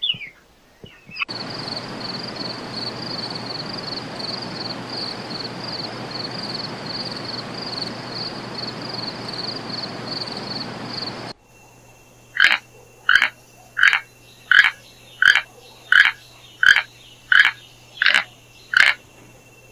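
Animal calls in two parts: first a dense chorus with a fast, steadily pulsing high note that runs for about ten seconds and stops abruptly. Then come ten loud, evenly spaced calls, about two-thirds of a second apart.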